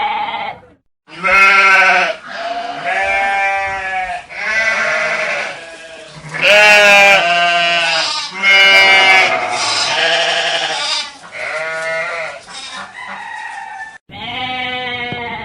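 Bleating livestock, sheep or goat kind: a run of about a dozen loud, wavering calls, each under a second long. Two abrupt breaks, about a second in and near the end, look like cuts between clips.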